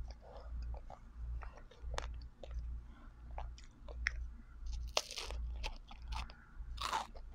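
Close-miked mouth sounds of someone biting and chewing an ice cream cone: crisp crunches of the cone and chewing at an irregular pace, with louder crunches about five and seven seconds in, over a low steady hum.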